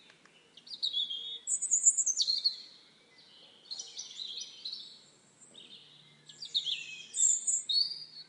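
A songbird singing in three short phrases of quick, high chirps and sliding notes, with pauses of about a second between them.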